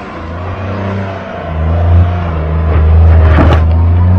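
Tata Tiago hatchback's three-cylinder petrol engine revving as the car pulls away hard on a loose dirt track. Its tyres crunch and spray gravel, with a cluster of stone hits about three and a half seconds in.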